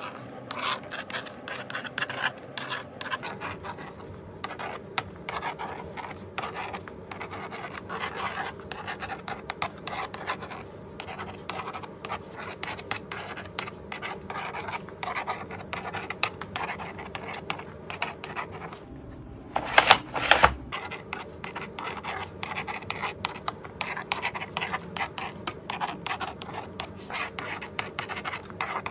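Magnetic pen scratching across a magnetic drawing board in quick, irregular strokes. About two-thirds of the way through comes a louder, harsher scrape lasting about a second.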